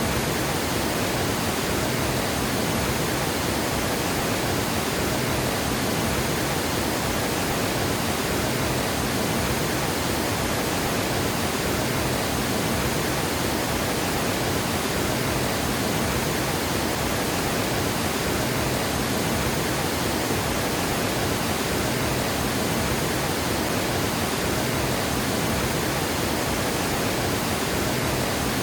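Water gushing over a dam spillway: a steady, even roar of falling water with no change in level.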